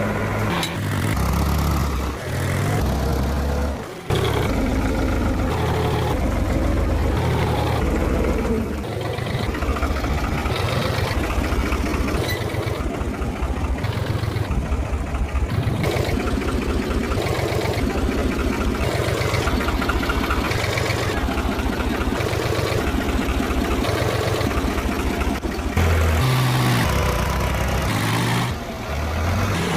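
Tractor diesel engines running and revving under load, the sound changing abruptly in places.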